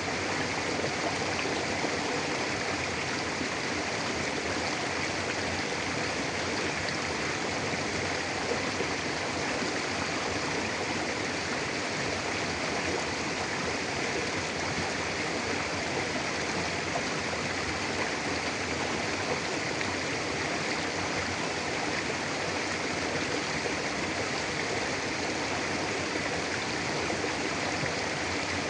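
Mountain river flowing steadily over rocks: a constant rushing of water.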